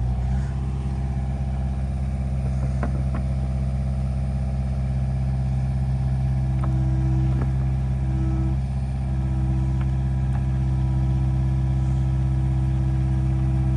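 Heavy equipment engine running steadily at raised speed after revving up. A faint steady whine comes in about six and a half seconds in.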